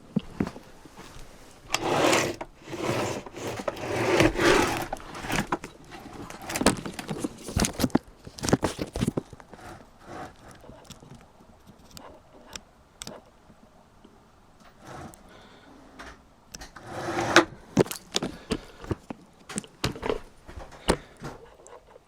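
Irregular knocks, clicks and clatter with louder scraping, rustling bursts about two to five seconds in and again around seventeen seconds.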